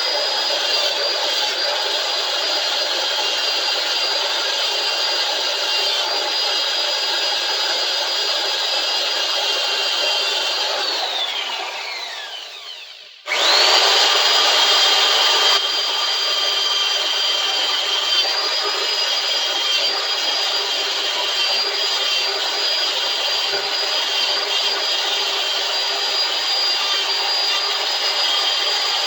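A small electric power tool running with a steady high whine and a rough rubbing, abrading sound as grime and rust are worked off the metal bar clamp. About 11 seconds in it spins down with a falling whine, stops, and starts up again about two seconds later.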